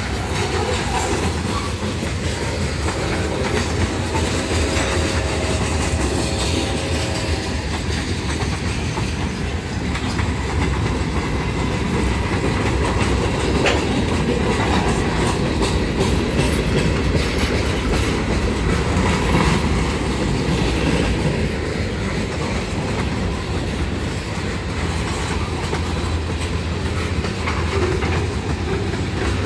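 Freight train cars (covered hoppers, gondolas and tank cars) rolling past close by, with a steady rumble and wheels clacking over the rail joints.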